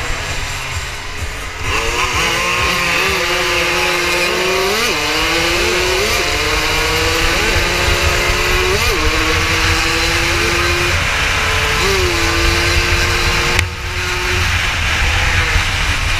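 80 cc racing motorcycle engine heard from onboard at full throttle: its pitch climbs steadily through each gear and drops sharply at each upshift, several times over. About thirteen and a half seconds in the throttle closes and the engine note falls away, with a low wind rumble on the microphone throughout.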